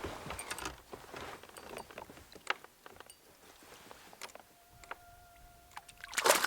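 Small clicks, knocks and rustles of a caught black bass being handled aboard a kayak. A steady tone sounds for about a second and a half midway, and a louder noisy burst comes near the end.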